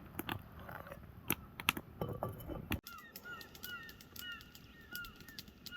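Sharp clicks and crackles over a low rumble, then, after a sudden cut nearly three seconds in, a bird calling with short downward-slurred chirps repeated a few times a second.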